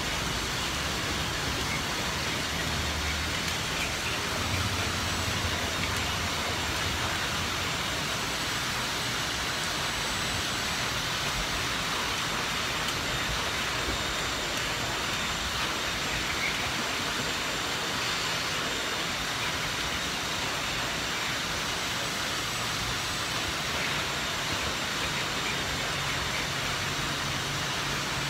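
Heavy rain falling steadily as a dense, even hiss. A vehicle engine runs low underneath in the first few seconds and again near the end.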